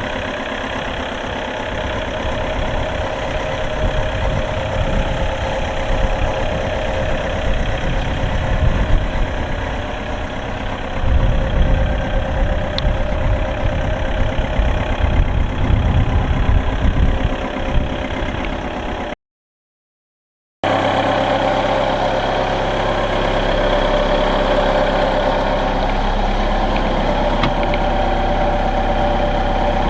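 Linde H40D forklift's Volkswagen diesel engine running, its sound swelling louder at times in the first two-thirds. After a short break about two-thirds in, it runs steadily.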